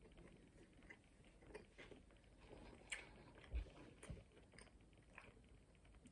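Faint chewing of pulled pork burgers by two people, with scattered soft mouth clicks, the clearest about three and three and a half seconds in.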